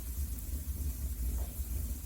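Wood fire burning in a fireplace: a steady low rumble of the flames with a hiss and a few faint crackles.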